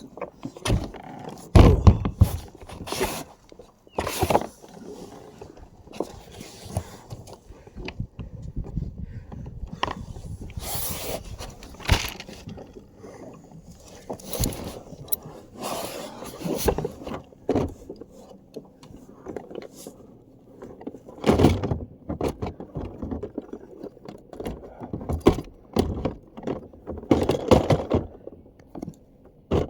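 Irregular knocks, bumps and scrapes of gear being handled on a kayak, with a few louder thumps about two seconds in, two-thirds of the way through and near the end.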